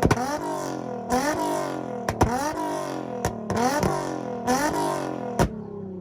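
Nissan Z car engine being revved hard in a rev battle: a sharp crack followed by a rising rev, repeated about once a second. Near the end the revs fall away smoothly toward idle.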